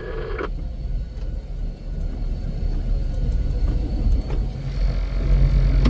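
Engine of heavy snow-removal equipment running with a steady low rumble, getting louder about five seconds in.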